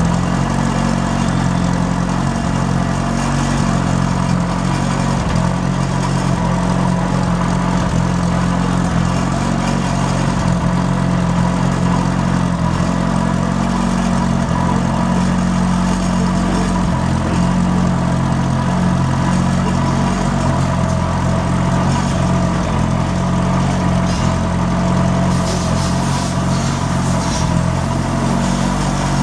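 Gas engine of a walk-behind concrete cutting saw running steadily at one speed, with an even low hum that does not rise or fall.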